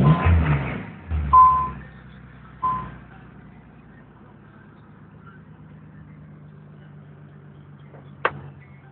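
Nissan 300ZX Z32's VG30DE 3.0-litre V6 with tubular headers and dual aftermarket exhaust, revved briefly, then settling within about three seconds into a smooth, steady idle. A few short beeps sound over the first three seconds, and there is a single sharp click near the end.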